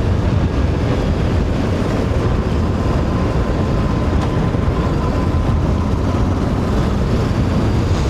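Steady wind rush over a helmet microphone while riding, with the Voge DS525X's parallel-twin engine running at a constant speed underneath.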